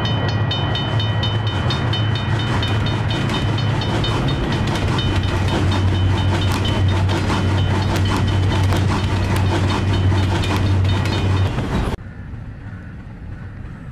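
Train sound effect: a train running with a steady low hum and rhythmic clickety-clack, with a fast repeated high ringing over it. It cuts off suddenly about twelve seconds in, leaving quieter outdoor ambience.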